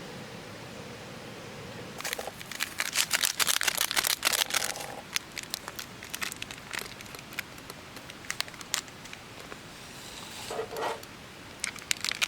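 Crinkling and rustling of something being handled: a dense run of crackles starting about two seconds in and lasting about three seconds, then scattered clicks and another short burst near the end.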